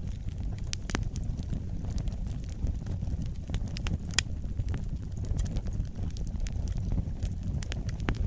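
Wood fire burning in a fireplace: a steady low rumble of flames with irregular sharp crackles and pops, the loudest about one and four seconds in.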